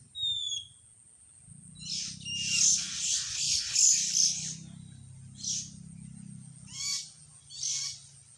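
Wild birds calling: a short downslurred whistle near the start, then a run of harsh, rasping chatter calls, followed by three shorter harsh calls spaced about a second apart near the end.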